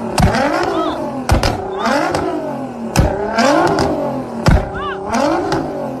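Nissan GT-R's twin-turbocharged engine revved in repeated blips, rising and falling, with four sharp exhaust bangs about every one and a half seconds. The bangs are unburnt fuel igniting in the exhaust, the afterfire that throws the flames.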